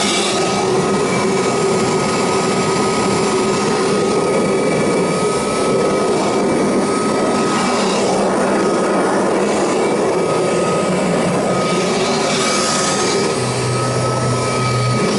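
Kirby Heritage II upright vacuum running in stair-vac mode, its motor giving a steady high whine with a rush of air that swells briefly three times as the nozzle is worked.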